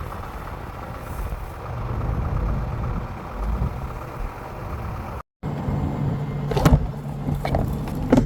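Farm machinery engine running steadily with a low rumble. It breaks off abruptly about five seconds in and resumes as a steadier low hum with a few light clicks.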